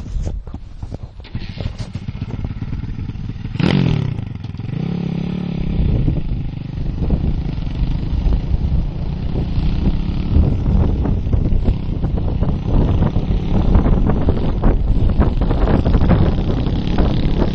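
Motorcycle engine revved sharply once about four seconds in, then running under load and growing louder as it pulls away, with a rattling clatter over it.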